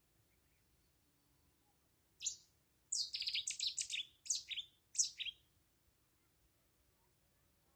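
Small songbird chirping: a quick run of high, short notes that each sweep downward, starting about two seconds in and coming in four clusters over about three seconds.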